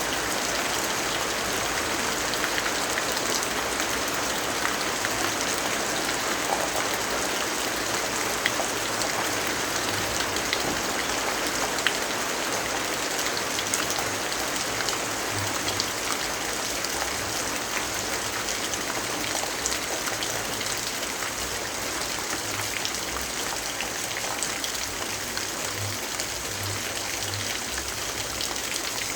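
Steady rainfall: an even hiss with scattered sharp drop ticks.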